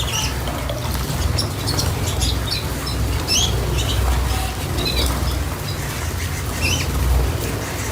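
Small cage birds chirping, with many short high calls scattered throughout, over a steady low rumble.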